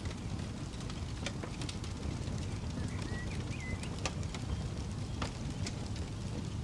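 Campfire crackling, with scattered sharp pops over a steady low rumble. A bird gives a few short chirps about three seconds in.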